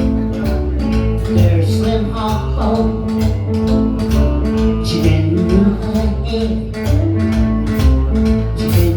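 Live blues band playing: guitar over a walking bass line, with drums keeping a steady beat.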